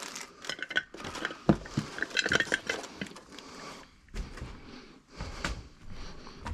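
Metal wheel hardware clinking, knocking and rattling as it is handled and fitted, with a burst of ringing clinks about two seconds in.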